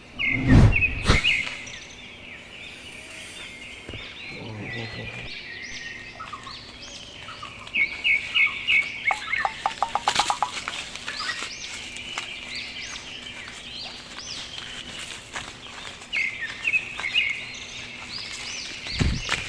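Many small birds chirping and twittering over and over, with a fast run of rapid notes about halfway through. Loud low thuds come just after the start and again near the end.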